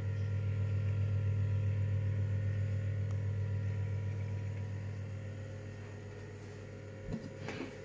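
Steady low electrical hum with a slight even pulsing, slowly fading over the last few seconds, then a soft low knock about seven seconds in followed by light scraping.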